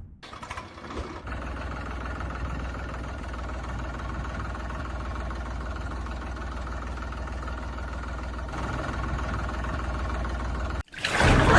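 Engine idling with a steady low rumble, cutting off suddenly near the end.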